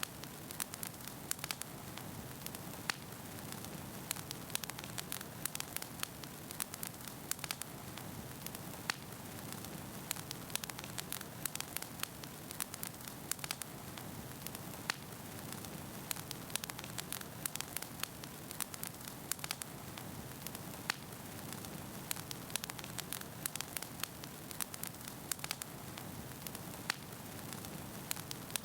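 Wood fire burning in a fireplace: logs crackling and popping many times a second over a steady soft rush of flame.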